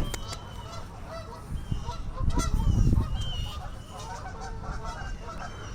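Birds calling in the background, with a short low rumble on the microphone about two and a half seconds in.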